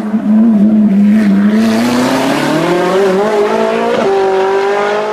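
Hill-climb race car engine under hard acceleration: the note holds, then climbs steadily in pitch from about two seconds in, with a quick break near four seconds like a gear change before it pulls on.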